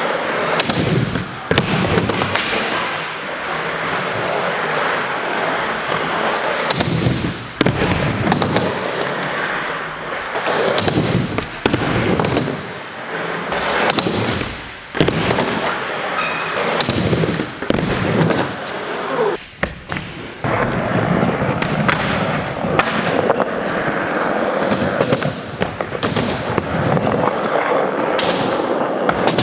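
Skateboards rolling over indoor park ramps and floor, with many sharp slaps and clacks of boards landing and hitting the surface at irregular intervals.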